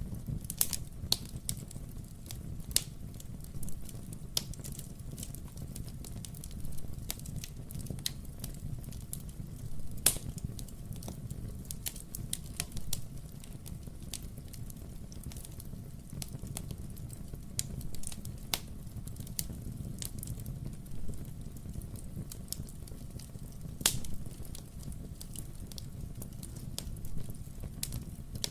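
Wood fire burning in a fireplace: a steady low rumble of flame with irregular crackles and sharp pops from the burning logs, a couple of louder pops standing out.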